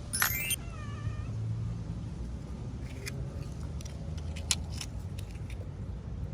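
A sharp rising squeal, then a short wavering meow-like call. A few seconds later come several small sharp clicks and taps.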